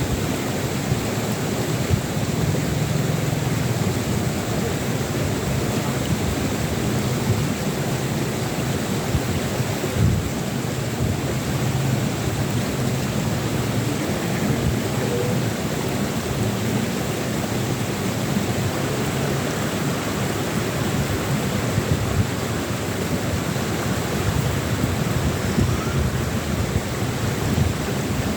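Wind buffeting the microphone outdoors: a steady, uneven low rumble with a hiss over it and a few brief louder gusts.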